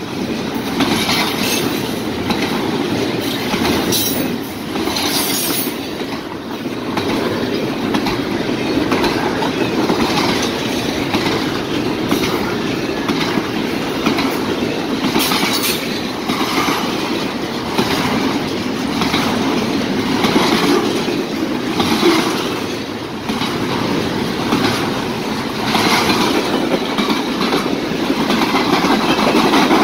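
Freight train cars (double-stack container well cars, then boxcars) rolling past at speed: a steady rumble of steel wheels on rail, with repeated clacks as the wheels cross rail joints.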